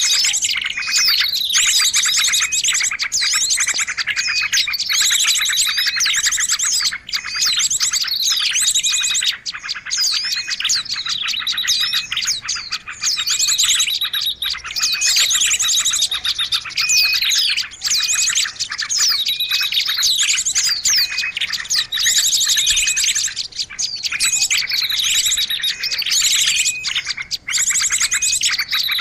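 Bird-lure recording of small songbirds: dense, high-pitched chirping and rapid trills, with a phrase of falling notes that repeats every two to three seconds without a break.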